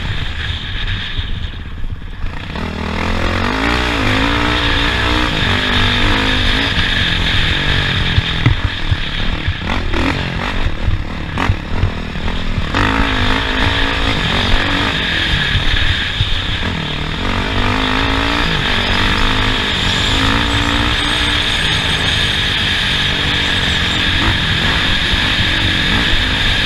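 Off-road race vehicle's engine heard on board, revving up and down in pitch over and over as it is driven around a dirt track, with a few sharp knocks and rattles about ten to twelve seconds in.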